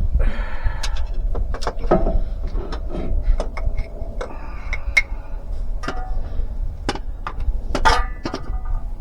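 Irregular metallic clicks, clinks and knocks of tools and parts being handled while a transfer case shift motor is fitted, with a few brief ringing tones, over a low steady hum.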